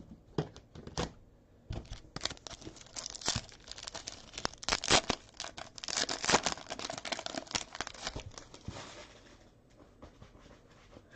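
Trading-card pack wrapper being torn open and crinkled, a run of ripping and rustling that fades out near the end.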